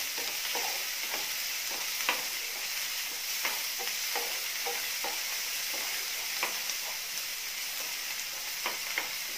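Crushed garlic and shallots sizzling steadily in hot coconut oil in a nonstick frying pan, with a wooden spatula scraping and tapping the pan as they are stirred and left to brown.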